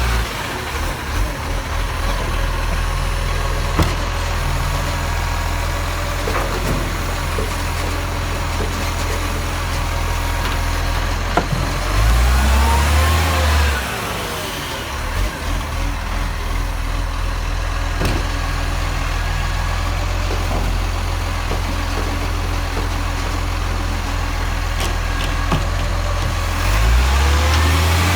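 Garbage truck engine idling steadily, revving up briefly twice, about halfway through and again near the end, with a few light clicks.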